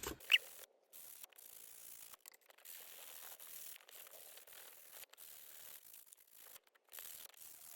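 An old metal file rasping over die-cut color core cardstock, sanding off the white surface to bring out the purple core beneath. Faint, with short breaks between strokes.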